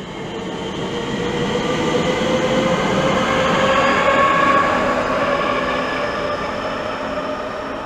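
Two coupled Class 465 Networker electric multiple units pulling out, their traction motors whining in several tones that climb slowly in pitch as the train accelerates. The sound swells to its loudest about halfway through, then eases off.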